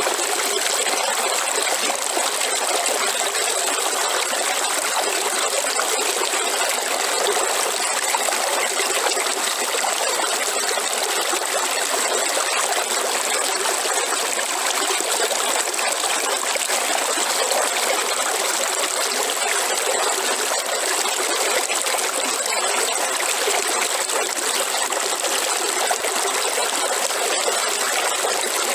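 River water flowing in a steady, unbroken rush, mostly hissy and bright with little deep rumble.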